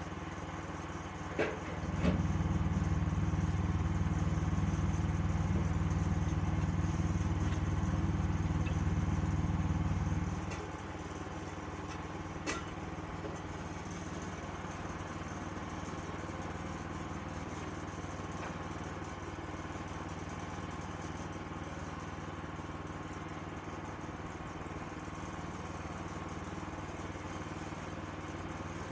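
Sawmill engine running steadily. For about eight seconds early on, a much louder, deep, steady running sound joins it, then cuts off, with a few sharp clicks around its start and a little after its end.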